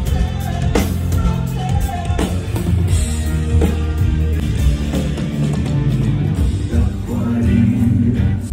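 Live rock band playing during a sound check: drum kit with regular hits over a steady bass and guitar, with a voice singing.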